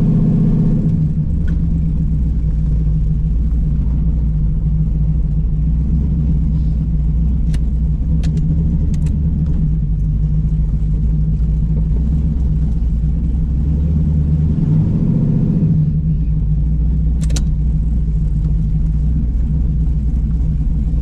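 Car engine running at low speed with a steady low drone; its pitch swells briefly about a second in and again around fifteen seconds in. A few short sharp clicks are heard in between.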